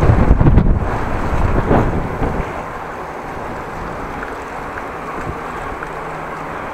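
Wind buffeting the bike-mounted camera's microphone, a loud rumbling gusts for about the first two seconds, then easing to a steadier, quieter rush.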